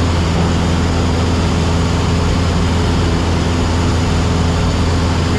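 Cessna 172SP's four-cylinder Lycoming IO-360 engine and propeller droning steadily at cruise power, throttle set and mixture leaned, heard inside the cabin.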